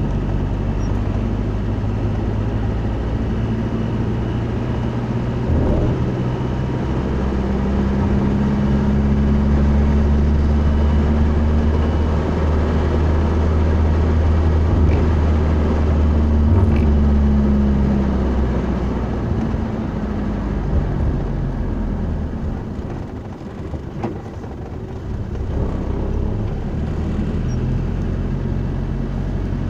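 Motor vehicle engine running with road noise. The engine hum grows louder for several seconds in the middle, then eases off and dips briefly before picking up again.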